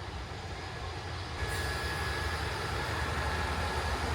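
A train running at the station with a steady low rumble. It grows louder about a second and a half in, when a faint high-pitched squeal comes in.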